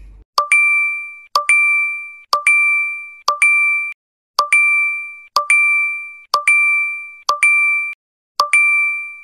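A bright chime sound effect dinging in quick double strikes about once a second, each ring fading out, with dead silence between.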